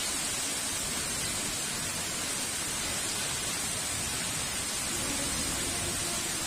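Heavy rain falling in an even, steady hiss.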